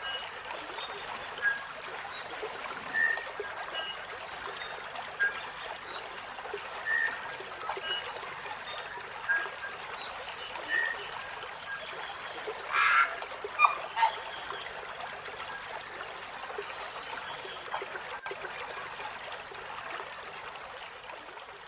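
A steady trickling stream runs under short bird chirps that come every second or two, with a louder flurry of calls about thirteen seconds in.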